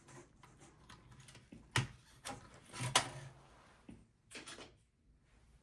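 A handful of small, sharp plastic clicks and taps from hands working a cable connector inside a desktop PC, pressing down its latch clip to unplug the video cable; the loudest click comes about three seconds in.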